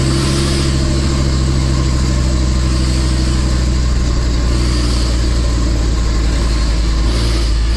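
Nissan Diesel Big Thumb's RH10 V10 diesel engine pulling steadily under a 25-tonne load on a hill climb, a deep, even drone.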